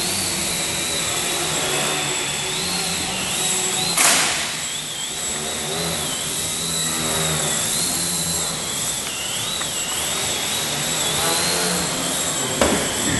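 High whine of a small electric model airplane's motor and propeller, its pitch wavering up and down as the throttle changes during aerobatic flying. A short sharp burst of noise breaks in about four seconds in and again near the end.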